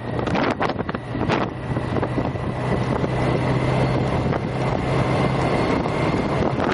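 Wind buffeting the microphone over a steady low engine hum from a vehicle, strongest in the middle, with a faint steady high whine.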